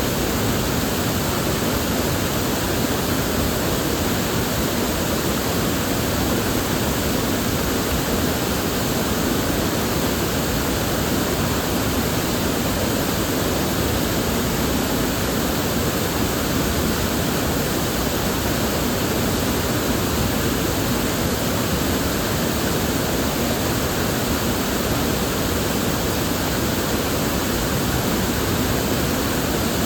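River water flowing steadily, a constant even rush with no distinct splashes or changes.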